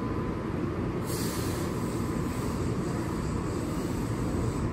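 Keihan 8000-series electric train standing at the platform, giving off a steady low hum with a faint steady high tone. There is a short hiss about a second in.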